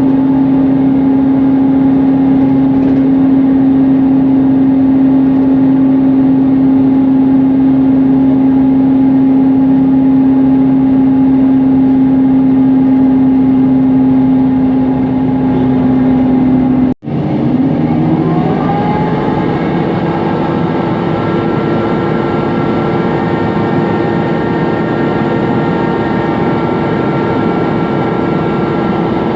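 Mercedes-Benz Conecto NGT city bus under way, its engine and noisy cooling fan making a steady droning hum. About 17 seconds in, the sound cuts out for a split second, then the hum climbs in pitch over a second or two and settles higher.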